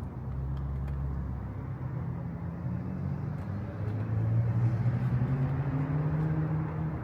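Truck engine running, heard from the cabin. Its hum drops in pitch a little before the middle, then rises slowly, as when the truck slows and picks up speed again.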